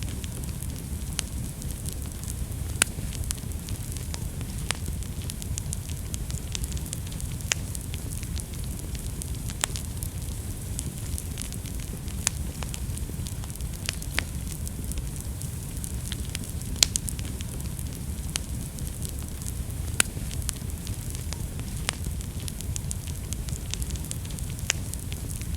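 Wood fire burning in a fireplace: a steady low rumble and hiss with irregular sharp crackles and pops scattered throughout, a few louder snaps standing out.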